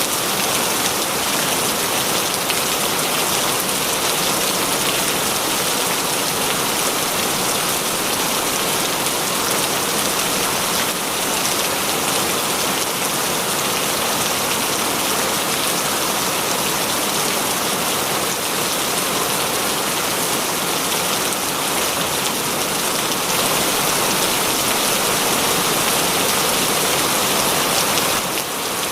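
Heavy rain falling steadily, an even hiss of many drops on surfaces.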